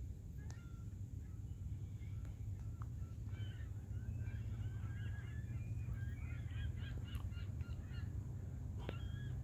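A flock of birds calling: many short, quick calls that crowd together from about three seconds in, over a steady low rumble.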